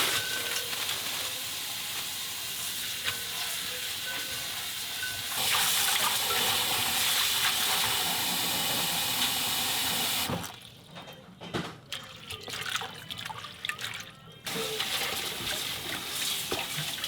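Tap water running into a sink, getting louder about five seconds in. It stops for about four seconds, with a few small knocks, then runs again near the end.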